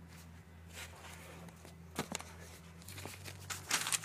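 Paper being handled and crinkled in the wind, with a couple of sharp crackles about two seconds in and more crinkling near the end, over a steady low hum.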